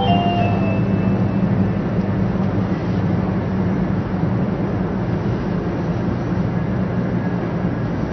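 Steady rumble and rush of a JR West 500 series Shinkansen running at speed, heard inside the passenger cabin. The last notes of a chime melody fade out about a second in.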